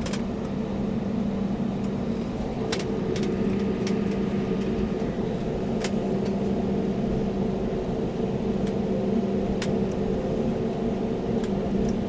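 Airbus A321-200 cabin noise: a steady jet-engine and airflow hum with two constant low tones, broken by a few short clicks and rattles.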